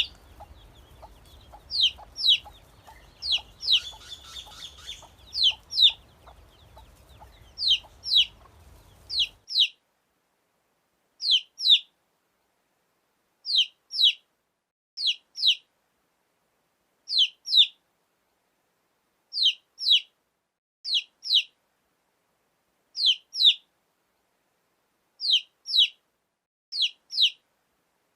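Baby chicks peeping: short, high, downward-sliding chirps in clusters of two or three, repeating about every two seconds. For the first third a low hum and faint quick ticking sit under the peeps, then the background drops out suddenly, leaving only the chirps.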